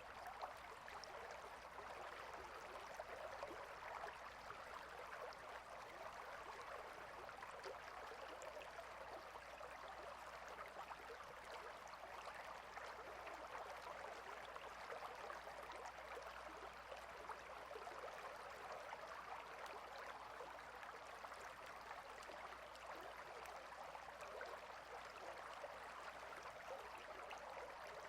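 Stream flowing steadily: a faint, even rush of running water.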